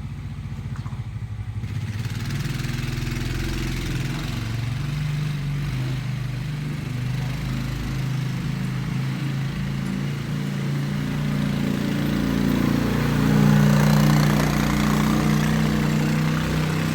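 An engine running steadily, its pitch and loudness rising a little about twelve seconds in, then easing back.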